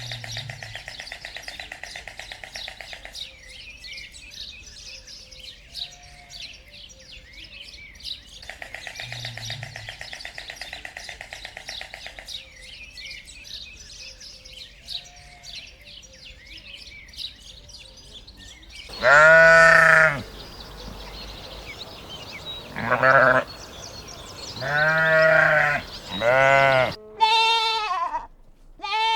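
Livestock bleating: about five loud, wavering calls in the second half, with one more near the end. Before them comes a quieter stretch of rapid, pulsing chatter.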